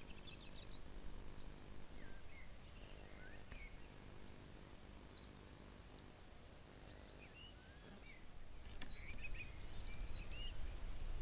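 Scattered short bird chirps and calls over a low rumble of outdoor noise, which grows louder near the end.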